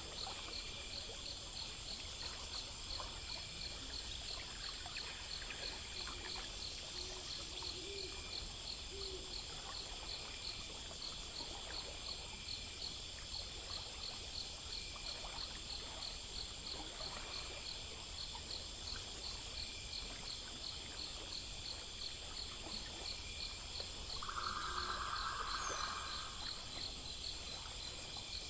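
Night insect chorus: crickets and other insects chirping steadily in several overlapping rhythmic layers over a low background rumble. A few soft low calls sound about a quarter of the way in, and a louder steady call of about a second and a half comes near the end.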